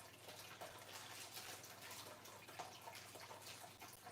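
Near silence: faint, scattered light clicks of small desk-assembly hardware being handled and sorted, over a steady low electrical hum.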